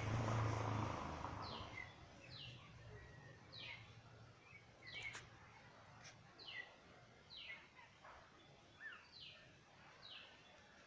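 A bird calls over and over in short, falling notes, about one a second. A louder rustling noise fills the first second or two.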